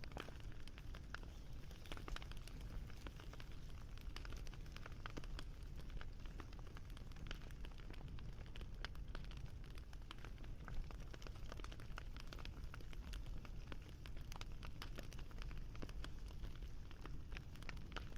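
Wood campfire crackling: frequent small sharp pops and snaps over a low steady rumble, with one louder pop about eleven seconds in.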